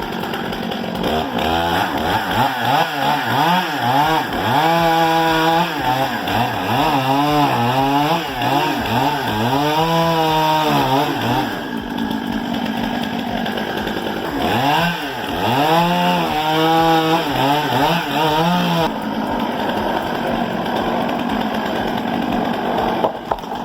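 Stihl MS 661 two-stroke chainsaw cutting, its engine revving up and down again and again. Near the end the pitch swings stop and a steadier rough noise remains.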